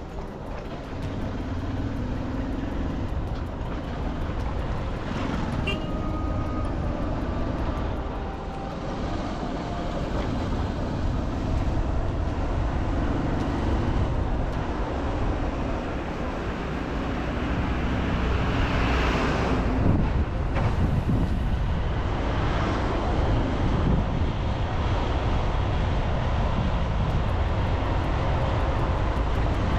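Road vehicle noise: a steady low rumble, with a louder vehicle swelling up and passing about two-thirds of the way through.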